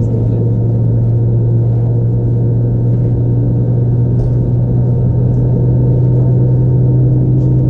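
Steady low hum inside the cabin of an Airbus A320 airliner, with faint steady higher tones over a rumbling noise floor.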